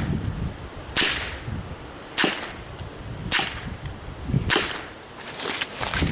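.22 LR rifle firing four single shots about 1.2 seconds apart, each a sharp report.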